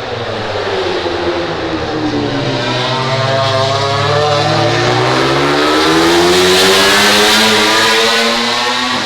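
MotoGP prototype race bikes' four-cylinder engines on track: the engine note falls in pitch as they slow, then rises as they accelerate, loudest a little after the middle.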